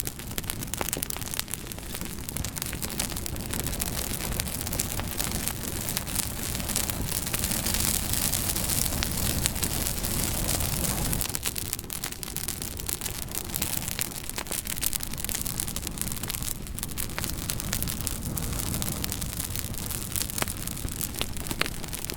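Campfire burning, with steady hissing and many small irregular crackles and pops of burning wood, swelling a little louder near the middle.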